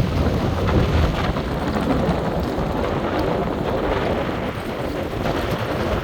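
Wind buffeting the microphone: a steady rushing noise with a heavy low rumble that eases slightly toward the end.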